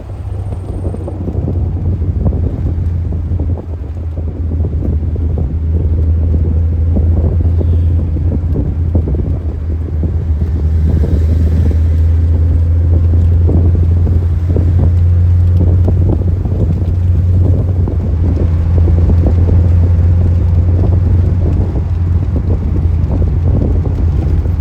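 Car driving at steady motorway speed: a steady low engine and road drone, with wind noise on the microphone.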